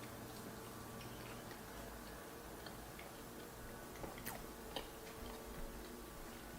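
Quiet eating: a few faint, irregular clicks of chewing and mouth noise over a low steady hum, the clearest clicks about four to five seconds in.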